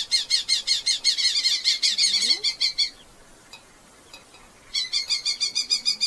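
Red-footed falcon giving a rapid series of harsh, repeated calls, about six a second. The calling breaks off about halfway through, then starts again.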